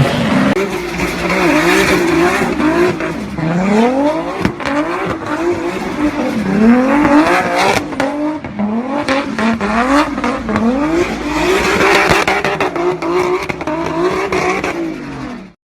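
BMW E30's engine being revved hard, its pitch repeatedly climbing and dropping in quick swings; the sound cuts off suddenly near the end.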